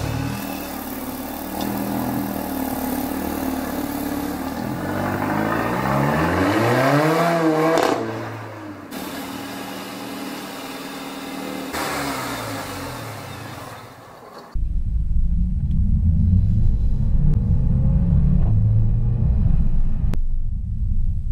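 Mercedes-AMG A45's turbocharged 2.0-litre four-cylinder through its AMG Performance Exhaust, accelerating with its pitch climbing and falling away twice. Then a sudden change to a deep, dull low rumble with little high end.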